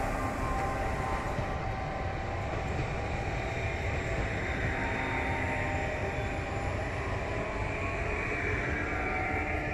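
Electric multiple-unit passenger train passing close by: a steady rush of wheels on rail, with a faint whine over it.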